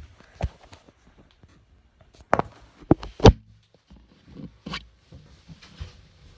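Footsteps and handling noises: a string of separate knocks and thumps with quiet between them, the loudest about three seconds in.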